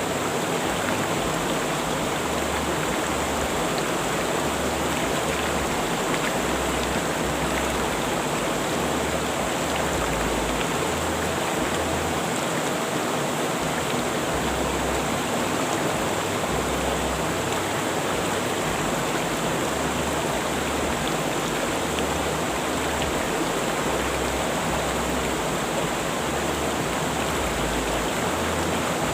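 Rushing river water flowing steadily: an even, unbroken wash of noise with no breaks or changes.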